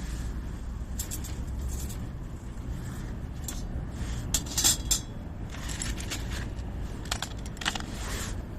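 A few light metallic clinks and clatters, the loudest about halfway through, over a steady low rumble.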